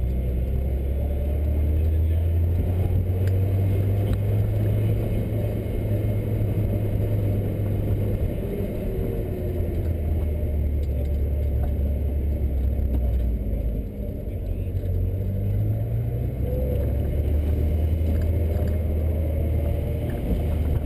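Car engine running at low revs under light throttle, heard from inside the cabin, its low drone rising and falling with the throttle. It dips briefly about two-thirds through, then the note climbs.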